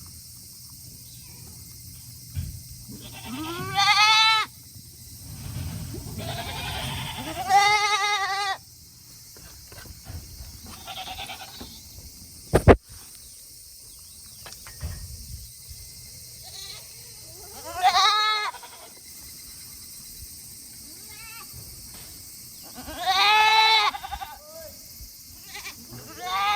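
Goats bleating: about five long, wavering calls spaced several seconds apart. There is a single sharp click or knock about halfway through.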